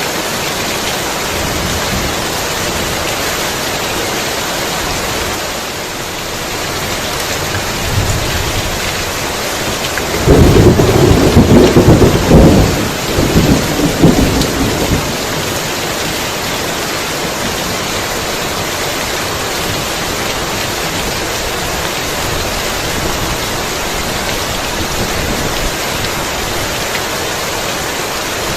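Heavy rain falling steadily, with a loud rolling thunder clap about ten seconds in that rumbles for some five seconds before fading back into the rain.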